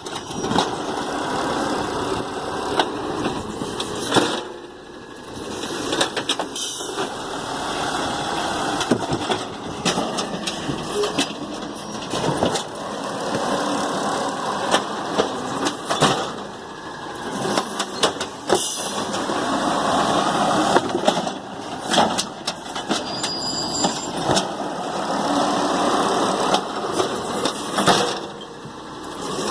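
Garbage truck working its route: the engine and hydraulics rise and fall in repeated cycles, with frequent knocks and clatters.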